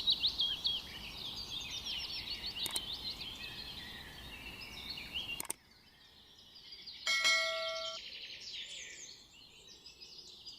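Small songbirds chirping fast, many quick falling notes, until the sound cuts out abruptly about halfway through. A single bell-like ding lasting under a second follows at about seven seconds, and faint bird chirping carries on after it.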